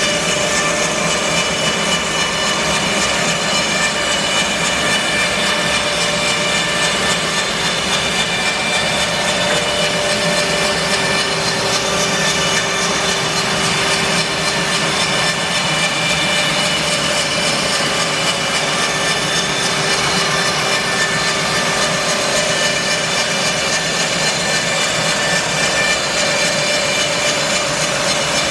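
Bandsaw mill running steadily, its blade cutting through English larch, with a continuous machine whine and no let-up.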